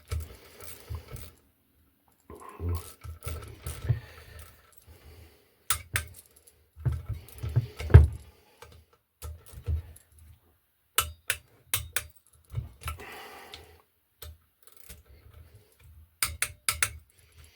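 Metal hand tools clicking and clinking irregularly as bolts are tightened by hand, with short knocks of metal on metal.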